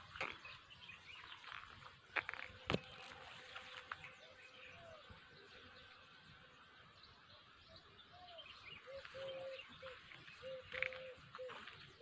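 Faint birds chirping in an open outdoor ambience, with one sharp click about three seconds in. A steady low whistling tone with small upward slides comes and goes in the second half.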